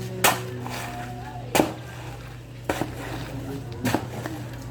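Four sharp knocks, about a second apart, over a steady low hum.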